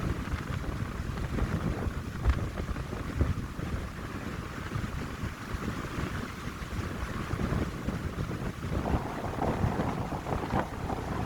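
Wind blowing through pine trees, with gusts buffeting the microphone in irregular low rumbles; the hiss grows stronger about eight and a half seconds in as a gust picks up.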